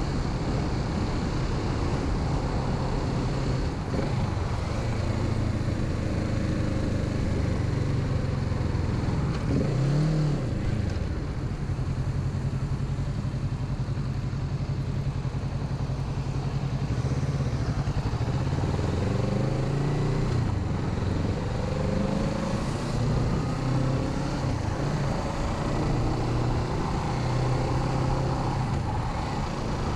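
Kawasaki Z650's parallel-twin engine running under way, heard from the rider's helmet. Its pitch rises and falls with throttle and gear changes, with a quick rev blip about ten seconds in and a few rising pulls later on.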